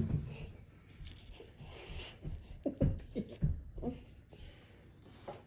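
A thump at the start, then a child's short wordless vocal sounds: a quick run of mouth noises a little under three seconds in.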